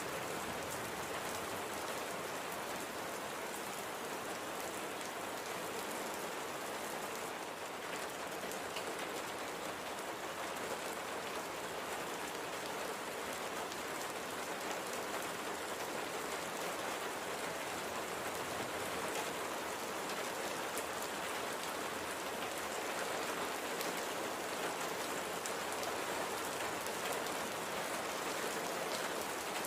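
Steady light rain falling on a surface, an even hiss with faint scattered drop patter.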